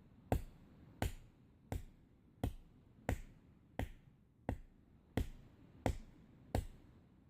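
Axe chopping wood: a steady run of about ten sharp strikes, roughly three every two seconds.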